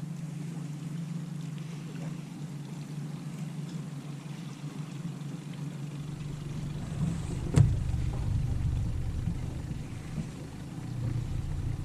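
Boat's motor running steadily with a low, even hum. A deeper rumble joins about halfway through, and there is one sharp knock a little after.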